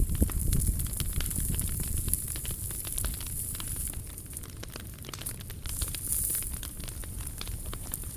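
Wood fire burning in a POMOLY T-Brick Ultra, crackling with many small irregular pops over a low, steady rumble.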